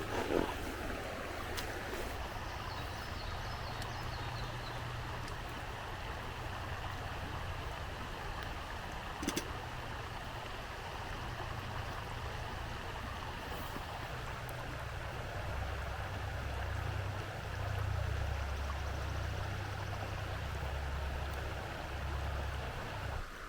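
Flowing river water, a steady rushing, under a low rumble that grows louder in the second half; a single click about nine seconds in.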